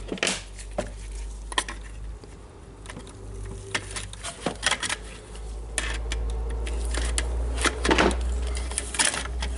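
Irregular small clicks, clinks and a brief scrape from tools and small plastic and metal parts being handled while the radio's potentiometer and switch are taken out, over a steady low hum.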